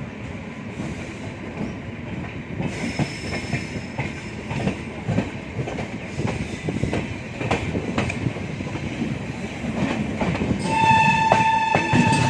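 Passenger train running at speed, its wheels clattering over rail joints with a rumble that grows louder. About ten seconds in, a train horn starts a steady, loud blast that is still going at the end.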